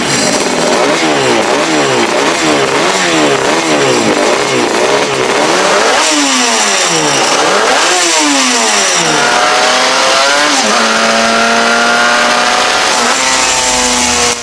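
1981 Suzuki RG Gamma 500 (XR35) Grand Prix racer's two-stroke square-four engine being blipped on the throttle. The revs rise and fall quickly about twice a second, then go through two longer, slower rises and falls. From about nine seconds in, the engine holds at a steady raised speed.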